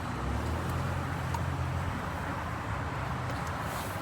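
Car engine running with a steady low hum, heard from inside the cabin, slightly stronger for the first few seconds.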